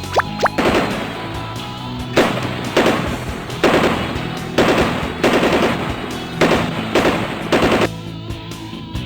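Bursts of machine-gun fire, about nine short rattling volleys in a row that stop about eight seconds in, over background music.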